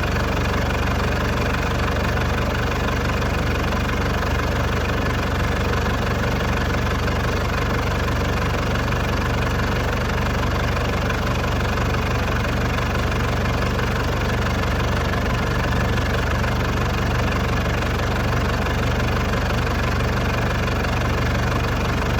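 Tractor engine running steadily at an even speed, its low hum strongest in the bass.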